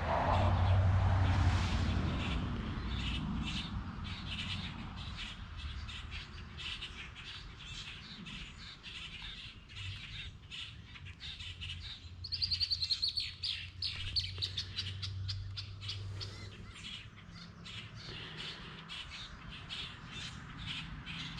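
Birds chirping and calling, with a fast run of high notes about twelve seconds in.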